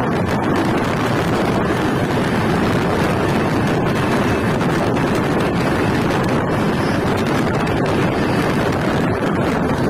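Steady rush of a passenger express train running at speed, heard from an open door with wind buffeting the microphone. The noise is loud and even, with no pauses.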